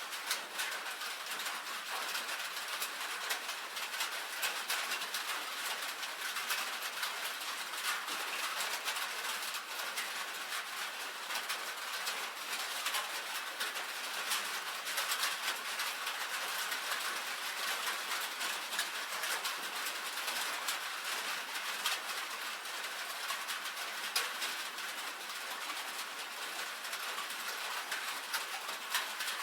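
Rain falling steadily on a tin roof: a dense, even patter with many sharp individual drop ticks.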